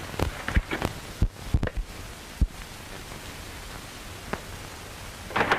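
Steady hiss of an old 1930s optical film soundtrack, with about seven sharp clicks or knocks in the first two and a half seconds.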